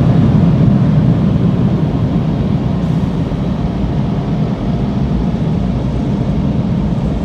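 Tunnel car wash air-dryer blowers running, a loud steady rush of air heard from inside the car's cabin during the drying stage.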